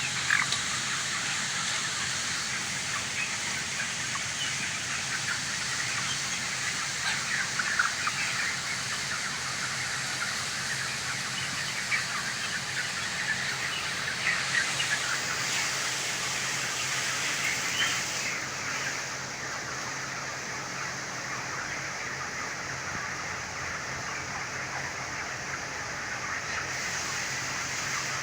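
A large flock of young broiler chickens chirping and calling all at once in a continuous din, over a steady low hum. The higher part of the sound thins out a little about two-thirds of the way through.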